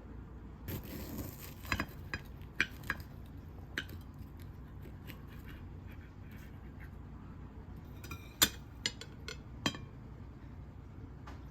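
Small objects being handled: scattered light clicks and taps, with a short soft rustle about a second in and the sharpest click about eight and a half seconds in.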